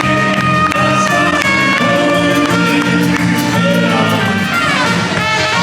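Live German beer-hall band music: held melody notes over a steady, pulsing bass beat.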